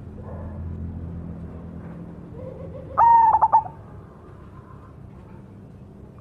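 Cemani (black-plumaged) perkutut, a zebra dove, singing one loud phrase of a few rapid cooing notes about three seconds in, over a faint low background hum.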